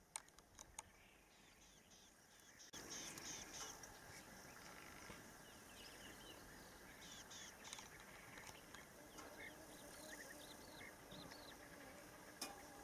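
Faint outdoor ambience with small birds chirping over and over, high and brief, after a few soft clicks in the first second.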